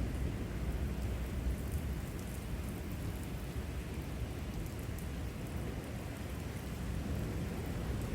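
Heavy thunderstorm rain falling steadily, with a constant low rumble underneath and faint scattered drop ticks.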